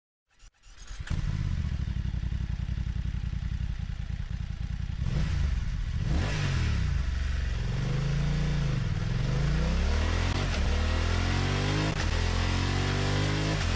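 BMW motorcycle engine cranked and started, idling steadily, then revved up and down a few times about five seconds in before settling back to steady running.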